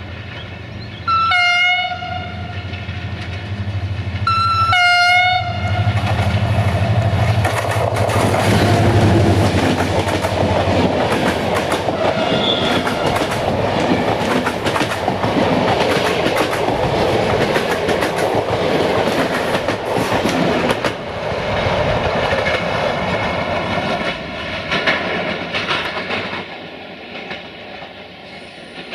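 A GM diesel locomotive gives two short chords on its horn as it approaches, with its engine droning low underneath. It then passes close at speed, and the passenger coaches' wheels clatter over the rail joints. The clatter dies away near the end.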